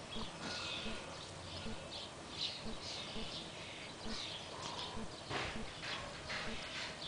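Small birds chirping repeatedly in short high calls.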